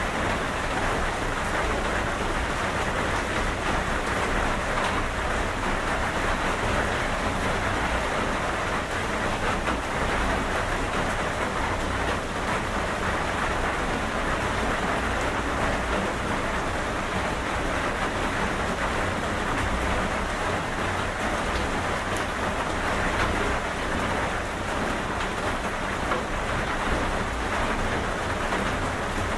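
Steady rain falling, an even hiss with a fine patter of drops that holds level throughout.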